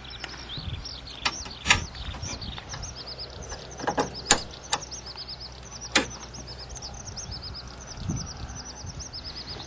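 Small birds chirping repeatedly in quick runs of short high notes, with several sharp knocks and clacks, the loudest about 2, 4 and 6 seconds in.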